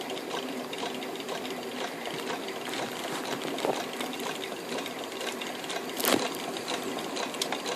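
Stirling engine and its generator running steadily with a fast, even mechanical clatter. A single sharper click stands out about six seconds in.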